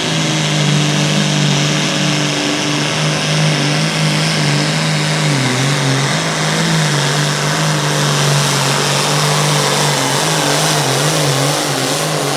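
Classic Super Stock John Deere 4430 pulling tractor's diesel engine running hard under load during a pull, a loud steady drone whose pitch dips and wavers about halfway through and again near the end.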